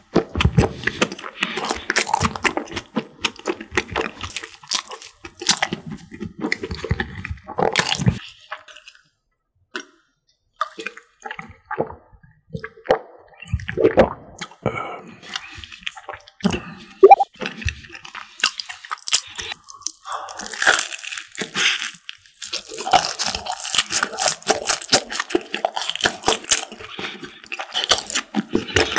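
Close-miked eating sounds: wet chewing of scone, dense and clicky at first. Gulps of milk from a glass mug and a sharp knock come about halfway through, then more chewing and crunching of croffle.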